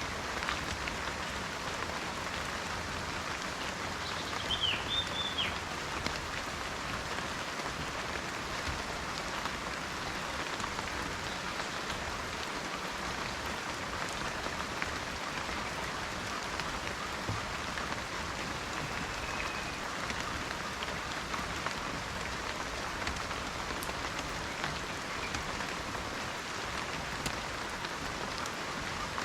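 Steady rain, a dense patter of drops, with a few short high chirps about five seconds in.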